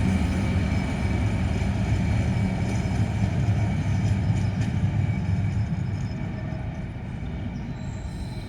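Diesel engines of a GBRF Class 66 and Class 69 locomotive pair (EMD 710 two-stroke V12s) running under power on a light-engine move, a steady low drone that slowly fades.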